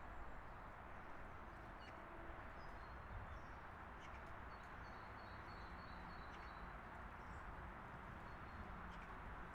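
Small birds chirping faintly: short, scattered calls over a steady, even background noise.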